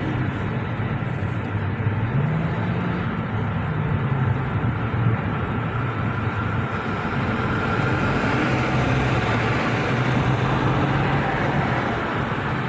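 City vehicle noise: a motor running with a low hum that rises in pitch about two seconds in and then shifts, over a steady wash of urban traffic sound.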